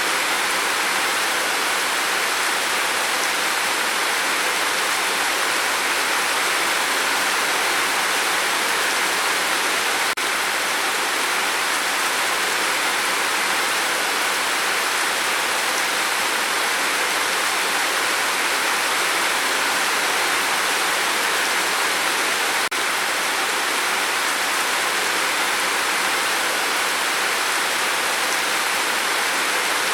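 Steady rain falling, an even hiss of many drops with no pauses. Two faint clicks, each with a momentary dip, come about ten and twenty-three seconds in.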